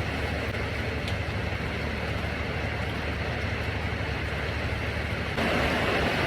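Heavy rain falling steadily, an even hiss that gets louder about five seconds in.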